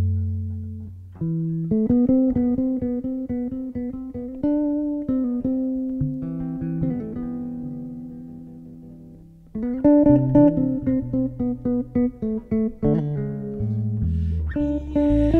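Two electric basses playing an instrumental carnival tune together, low bass notes under chords and melody played high on the neck. Midway a chord is left ringing and fades away, then the playing comes back loud with quick plucked notes.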